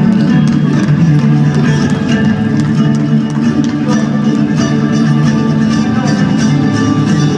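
A band playing live, with guitar prominent among the plucked strings.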